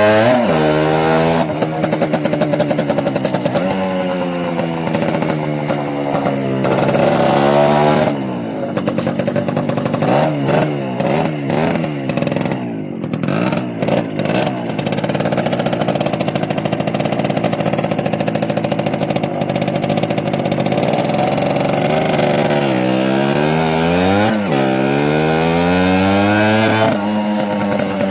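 Small motorbike engine under way, its pitch climbing and dropping again and again as it is revved up and shifted. For several seconds in the middle it runs choppy and uneven, as when coming off the throttle.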